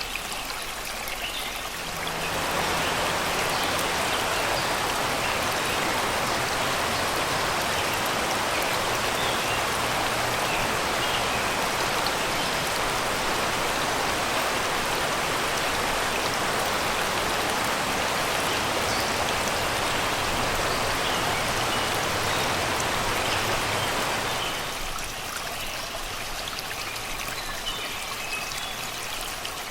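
Shallow river rushing and babbling steadily over rocks and stones. The water grows louder about two seconds in and falls back near the end. Small birds chirp faintly near the start and near the end.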